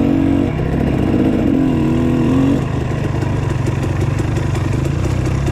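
Dirt bike engine running at low throttle on a trail, a steady low note with a higher tone over it that drops away about two and a half seconds in.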